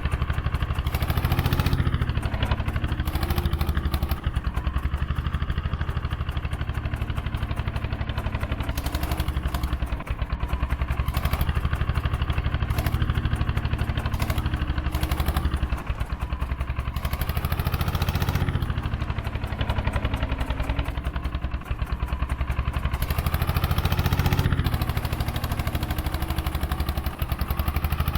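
Eicher 241 tractor's diesel engine running with a fast, even beat of firing pulses, its speed rising and falling several times.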